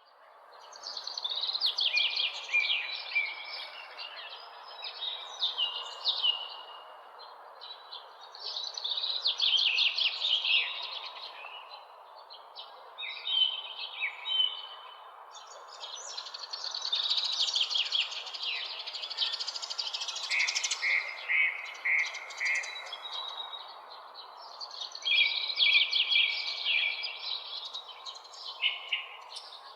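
Songbirds singing, with bouts of quick chirps and trills every few seconds over a steady background hiss. The sound starts from silence.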